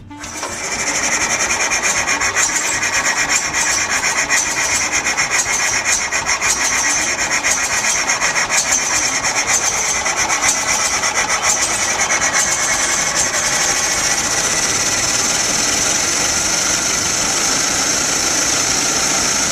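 Vintage 1922 truck's big four-cylinder engine running steadily, a loud, dense, rapid rasping clatter.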